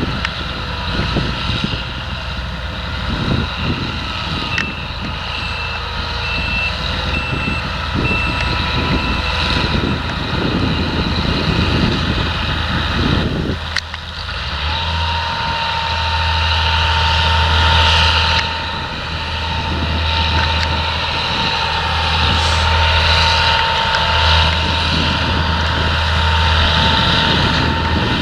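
Diesel engines of potato harvesting machinery and tractors running steadily, with wind buffeting the microphone through the first half. A reversing alarm beeps for a few seconds about five seconds in.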